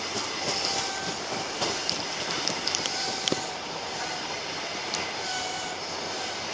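InterCity 125 high-speed train's Mark 3 coaches rolling past as it pulls away: a steady noise of steel wheels on rail. Sharp clicks come from the track, most of them in the first half, along with a few brief, faint squeals.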